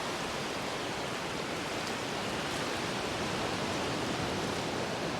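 Surf breaking on the shore, heard as a steady rushing noise with no other events.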